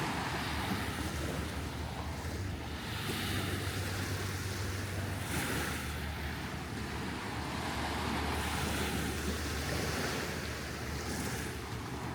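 Surf washing onto the beach, its hiss swelling every few seconds, with wind rumbling on the microphone.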